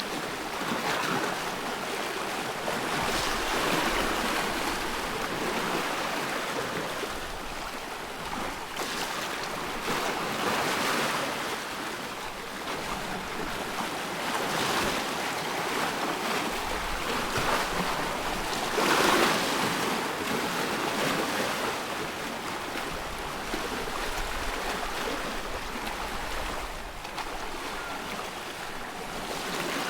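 Waves on a loch lapping and washing, rising in swells every few seconds, the loudest about 19 seconds in, with wind.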